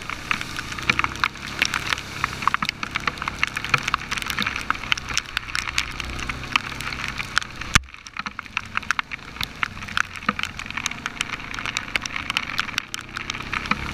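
Dense crackle of heavy rain striking a helmet-mounted camera's housing during an ATV ride, over the low drone of the ATV's engine. The crackle drops off briefly about eight seconds in.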